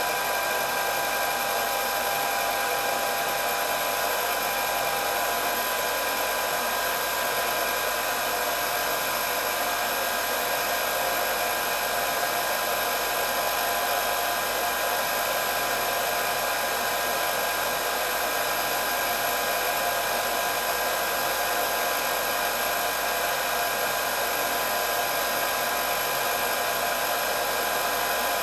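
Electric hair dryer running steadily on one setting: a constant rush of blown air with a fixed motor whine over it.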